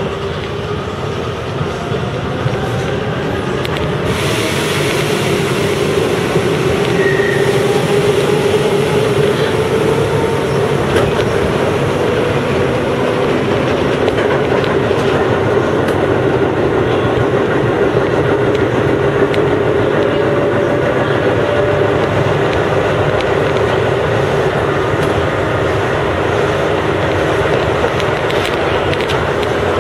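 Chiba New Town Railway 9000 series electric train running at speed, heard from the cab: a steady traction-motor whine over wheel-on-rail rumble and clatter. A louder rushing hiss comes in about four seconds in.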